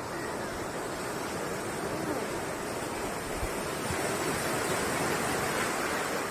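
Sea surf washing up on a beach, a steady rush of waves that swells a little louder about four seconds in.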